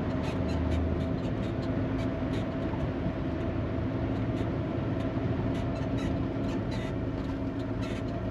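Semi-truck in motion heard from inside the cab: a steady engine drone and road noise, with scattered light clicks and rattles.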